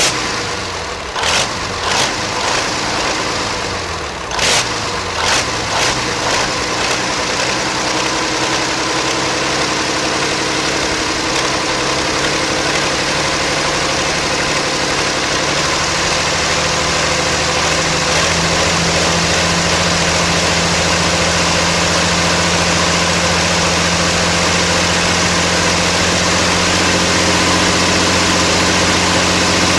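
World War II–era German Tiger tank V12 engine running on open exhaust pipes. It gives several sharp cracks in the first six seconds, then climbs in speed and settles into a steady, loud run.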